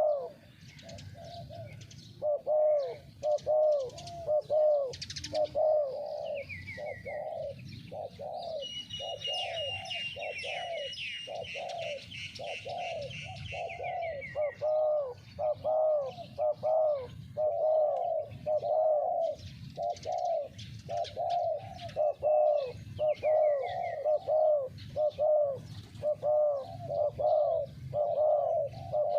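Spotted doves cooing over and over, a continuous run of low, arched coos with brief gaps. A smaller bird chirps and twitters higher up, most busily in the middle of the stretch.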